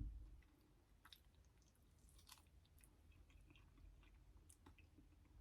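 Faint close-miked chewing and wet mouth clicks from a person eating, with a single low thump right at the start.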